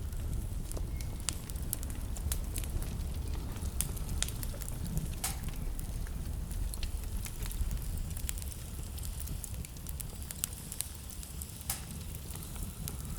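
Wood fire burning in a fireplace, crackling with frequent sharp pops, over a low steady rumble.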